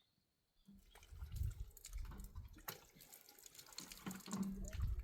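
Water splashing and dripping, starting abruptly about a second in, with many irregular taps and a low rumble underneath.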